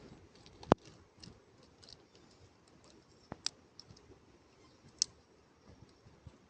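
A few scattered sharp clicks and taps over a faint background hiss, the loudest about three-quarters of a second in, then smaller ones near the middle and about five seconds in.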